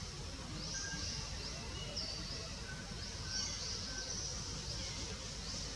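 Outdoor ambience: small birds chirping in short high notes, some sweeping quickly upward, repeating every second or so over a steady low rumble of background noise.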